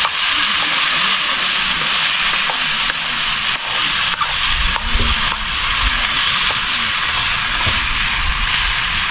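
Sliced potatoes frying in oil in a wok over a wood fire: a steady sizzle, with a few light clicks of a spoon stirring the pan.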